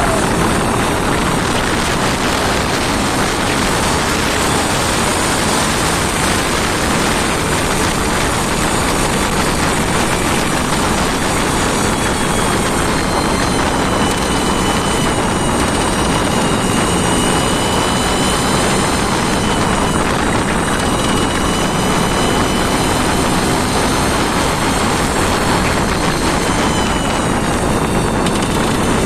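An engine running steadily at a constant speed on a test run, loud and even throughout.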